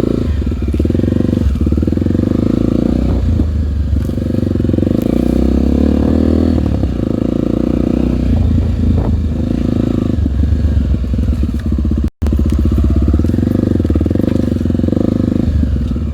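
Dirt bike's single-cylinder four-stroke engine running at low speed on a slow trail ride, its note swelling and easing with the throttle. The sound cuts out completely for a moment about twelve seconds in.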